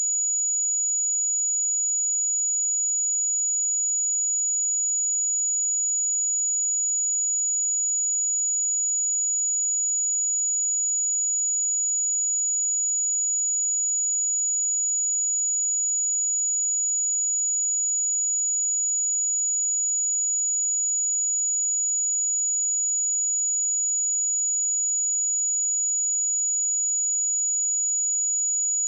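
Pure 6866 Hz sine-wave test tone: one steady, high-pitched whistle at constant level, with nothing else.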